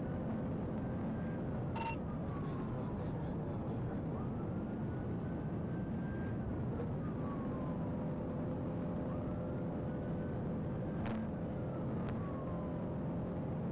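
Police car siren wailing in slow rises and falls, about every four to five seconds, over steady road and engine noise from a patrol car in pursuit.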